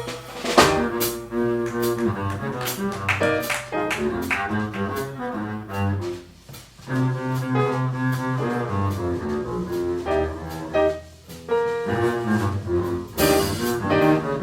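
Jazz combo playing live, the double bass prominent in a walking or soloing line, with piano and drums behind it.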